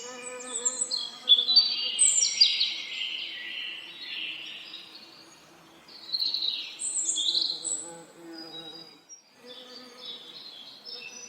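Songbirds singing in quick chirps and trills, loudest about one to three seconds in and again around six to seven seconds, over the steady hum of a buzzing bee that drops out briefly near the end.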